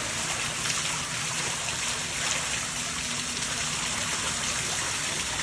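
Steady rush of spring water falling in a stream and splashing below, an even, unbroken hiss of water.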